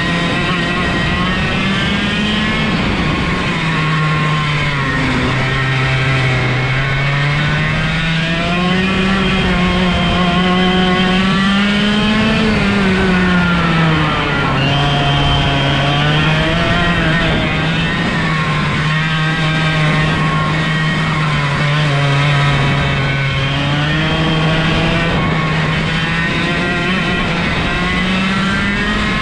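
125cc two-stroke kart engine with direct drive (no gearbox, no clutch) running hard, its revs rising and falling several times as the kart slows and accelerates again.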